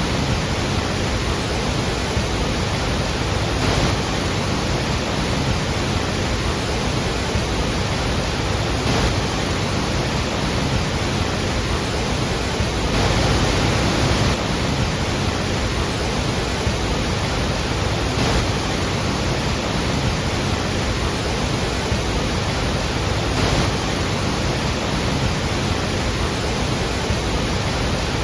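Roar of a large waterfall: a heavy cascade of falling water makes a steady, dense rush with no let-up.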